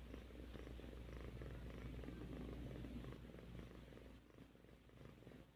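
Domestic cat purring steadily, close to the microphone, fading a little about four seconds in.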